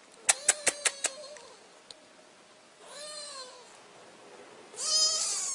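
A cat meowing twice, a shorter meow about three seconds in and a louder, longer one near the end. Before the meows come five quick, sharp clicks in the first second.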